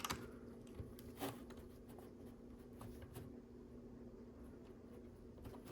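Faint, scattered clicks of plastic LEGO pieces being handled and pressed together, a few in the first second or so and a couple more about three seconds in, over a steady faint hum.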